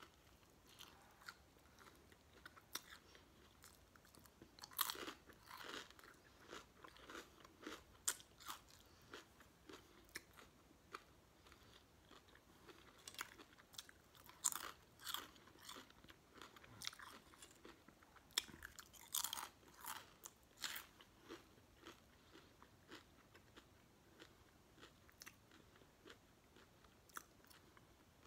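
A person chewing a cold cut sub sandwich and crunching potato chips, with sharp crunches and wet chewing at irregular intervals, a few of them much louder.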